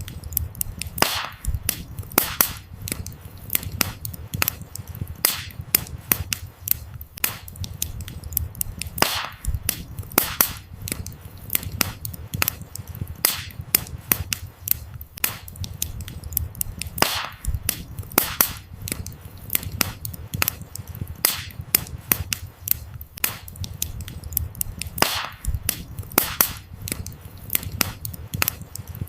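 Wood fire crackling: many sharp pops and snaps of burning firewood over a low, steady flame rumble. The same pattern of louder pops comes back about every eight seconds, as in a looped recording.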